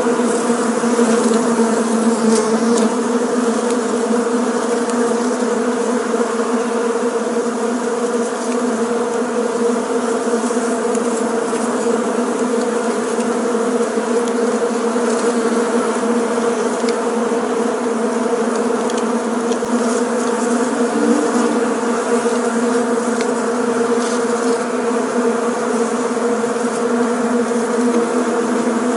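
Bees buzzing: a dense, steady drone of many wings that holds one low pitch without a break.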